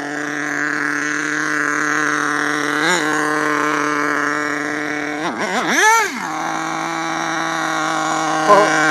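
Small nitro RC engine in an HPI Savage truck idling steadily, blipped briefly about three seconds in and revved up and back down more strongly about six seconds in. The idle is settling as the carburettor is tuned.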